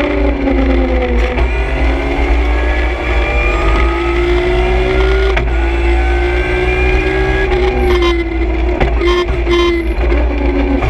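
BMW M3 E46 CSL rally car's straight-six engine heard from inside the cabin under hard acceleration. Its pitch climbs and drops several times as it shifts up through the gears, over a constant low road rumble.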